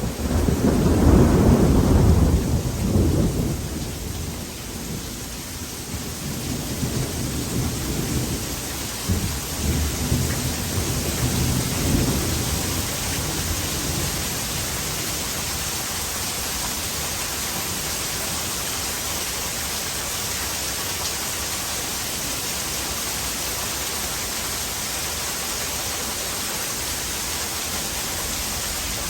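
Heavy thunderstorm: a loud roll of thunder in the first few seconds, then fainter rumbles until about halfway. After that only steady heavy rain is heard.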